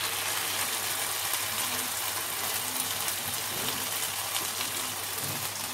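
Steady sizzling of fried potato cubes and poppy-seed paste cooking in hot mustard oil in a kadai.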